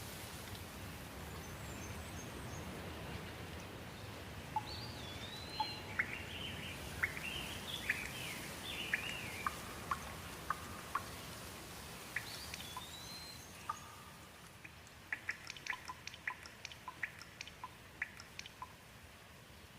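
Steady rain with a bird calling over it in repeated rising-and-falling whistles, and scattered drops ticking. The rain grows quieter about three-quarters of the way in, when a quick run of drip ticks follows.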